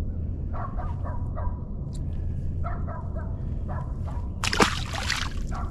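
Wind buffeting the microphone as a steady low rumble, with a short splash of water about four and a half seconds in.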